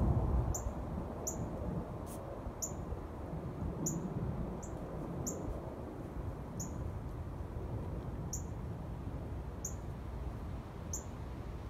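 A bird chirping: a short, very high, downward-slurred note repeated about once a second, around ten times. Beneath it runs a low outdoor rumble, loudest at the start.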